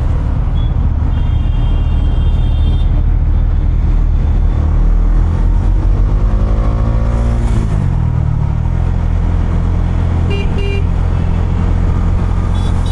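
Bajaj Dominar 250's single-cylinder engine running under a rider in city traffic, rising in pitch as it accelerates from about four seconds in and dropping back near eight seconds. Vehicle horns honk: one held note early on, two short toots about ten seconds in, and another near the end.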